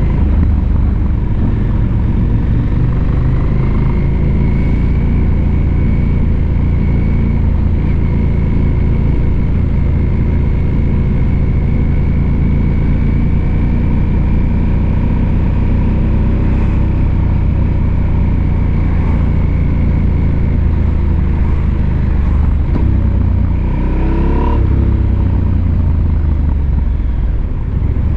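Husqvarna Norden 901's parallel-twin engine running steadily under way, its note holding nearly even, then dipping and climbing again briefly about three-quarters of the way through.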